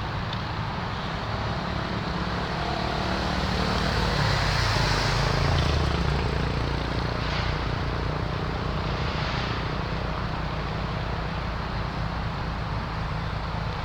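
Car engines and exhaust running at idle. One vehicle drives past, loudest about five seconds in.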